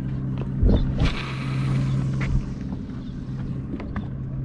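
Boat motor running at idle with a steady hum. A thump comes just under a second in, followed by a hissing rush lasting about a second and a half.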